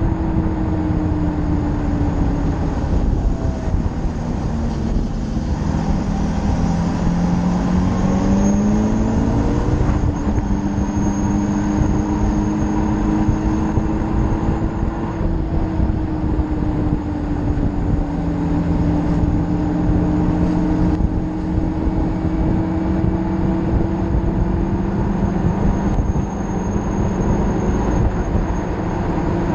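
Motorcycle engine under way at speed with a heavy rush of wind over the microphone. Its note climbs for a few seconds about a third of the way in as the bike accelerates, then holds steady.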